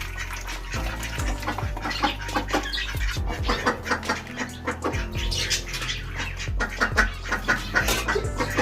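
Small cage birds chirping busily over background music with a steady low beat.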